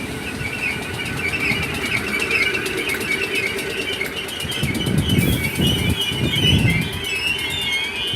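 Merseyrail Class 508 electric train moving off from the platform, its wheels giving a high, wavering squeal with clicking over the rails and a heavier rumble about five to seven seconds in.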